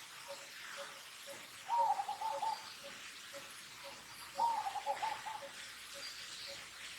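A bird calling twice, each call a quick run of quavering notes lasting under a second, over a faint note repeated about twice a second.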